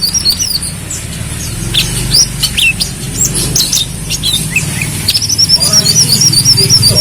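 Brown-throated sunbird (kolibri kelapa) singing: scattered sharp high chirps and short down-slurred notes, breaking into a fast, rapid twittering trill about five seconds in, over a steady low hum.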